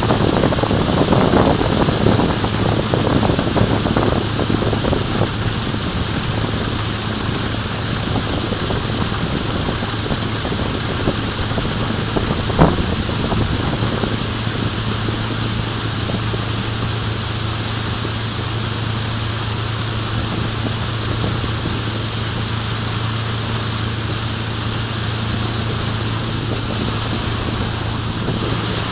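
Steady low hum over a constant rushing noise, with a few irregular louder sounds in the first seconds and a single sharp click a little before halfway.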